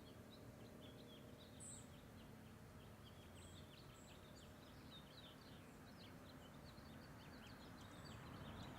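Near silence with faint bird chirps in the background, many short calls throughout.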